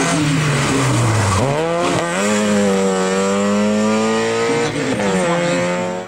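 Peugeot 106's four-cylinder petrol engine driven hard. Its pitch drops as it slows about a second and a half in, then climbs steadily through the revs, dips briefly at a gear change near the end and climbs again.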